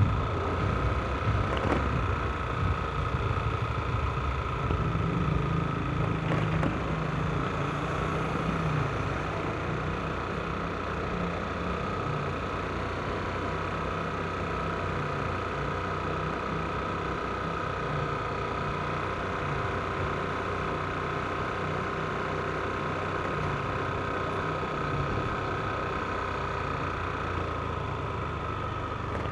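Yamaha NMAX scooter's single-cylinder engine running steadily, with a faint steady high whine over the hum.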